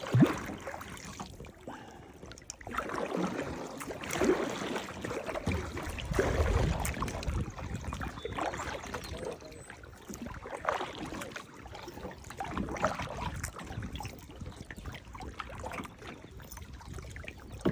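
Kayak paddle strokes: the blade dipping and pulling through lake water with swishes and splashes about every couple of seconds, and water trickling off the paddle between strokes.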